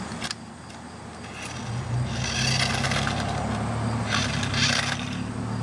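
Electric motor and gears of a remote-control toy car running as it drives, the hum getting louder about two seconds in. Twice there is a brief scraping of the wheels on the driveway.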